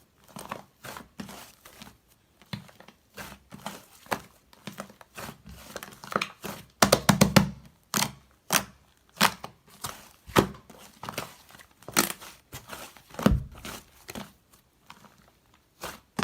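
Light-purple slime being squeezed and worked by hand, giving irregular sticky clicks and crackling pops, with a dense run of crackles about seven seconds in.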